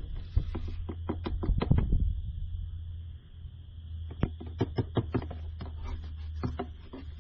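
A series of light clicks and knocks, a cluster in the first two seconds and another from about four seconds in, over a steady low hum.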